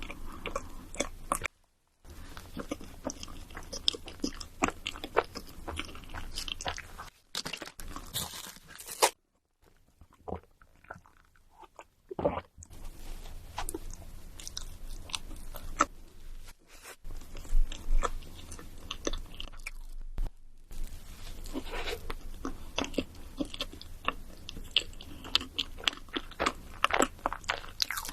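Close-miked eating of crunchy food: a rapid run of crisp crunches from biting and chewing. It is broken by a few abrupt short silences and a softer, quieter stretch partway through.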